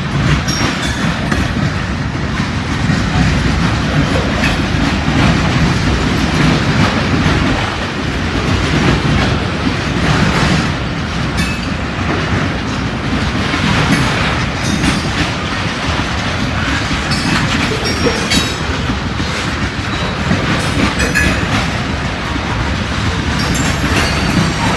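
A long freight train's cars rolling past with a steady rumble, the wheels clicking repeatedly over the rail joints.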